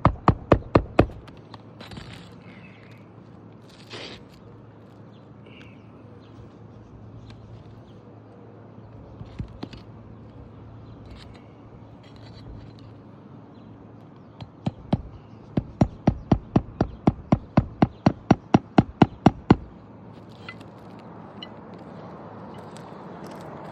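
Hammer driving roofing nails into a shingle: a short run of rapid, even strikes, about four a second, in the first second, then a longer run of about twenty strikes from about 15 to 20 seconds in, with a few light knocks and scrapes between.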